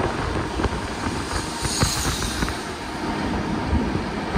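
Indian Railways express train running at speed, heard from inside a passenger coach: a steady rumble of wheels on the rails with scattered clicks over the track and a brief hiss about two seconds in.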